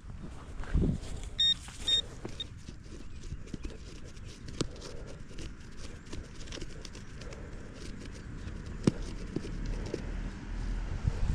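Metal detector giving two short high beeps, then the scattered knocks and scrapes of digging a plug out of the soil to recover the signal.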